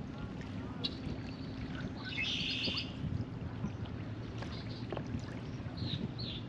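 Open-air lakeshore ambience: a steady low rumble of wind and water, with small birds chirping now and then and a short trill of repeated high notes about two seconds in.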